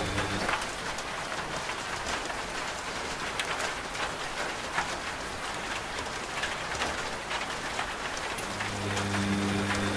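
Steady rain with scattered sharp drop ticks. A washing machine's low, steady hum cuts out about half a second in and comes back near the end.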